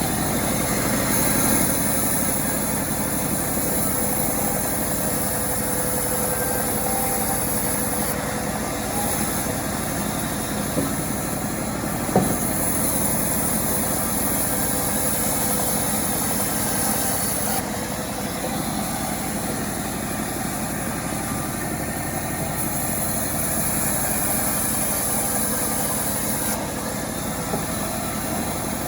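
Self-assembled chainsaw engine running steadily, with two short sharp knocks about eleven and twelve seconds in.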